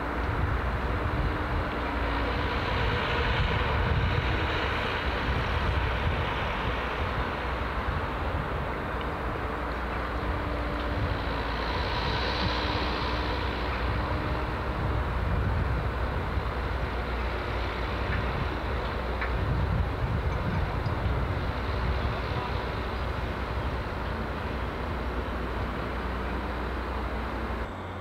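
Distant electric train and trackside ambience: a steady low rumble with a faint hum and no single loud event.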